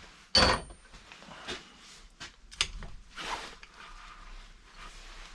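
A sharp metallic clank with a brief high ring about half a second in, followed by several lighter clicks and knocks and a short rustle: metal engine parts or tools being handled.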